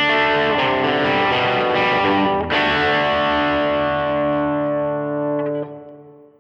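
Les Paul electric guitar played through a Nobels ODR-1 overdrive pedal into a Universal Audio Ruby amp plugin modelled on a Vox AC30, with reverb: overdriven chords ringing. A new chord is struck about two and a half seconds in and rings out, fading away near the end.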